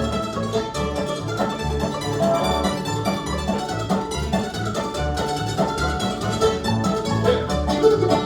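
Bluegrass band playing an instrumental break: plucked strings, with guitar, banjo and mandolin, over a steady bass beat.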